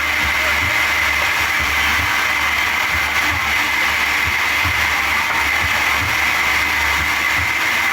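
Sawmill machinery running steadily, with a constant high-pitched whine over a clattering mechanical din and irregular low knocks.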